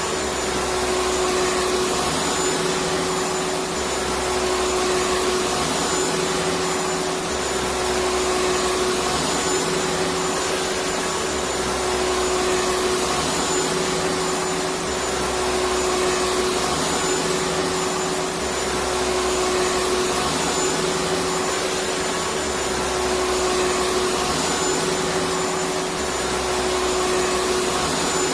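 Electric vacuum cleaner running steadily: even motor noise with a constant hum, and a low rumble that swells and fades every few seconds.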